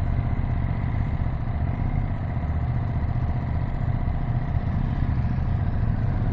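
Ducati Streetfighter V2 S twin-cylinder engine running at a steady pace, a low, evenly pulsing exhaust note with no revving.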